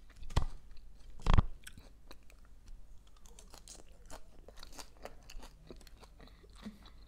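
Two sharp knocks in the first second and a half, then close-miked chewing of a leafy rocket salad with pine nuts, with many small soft crunches.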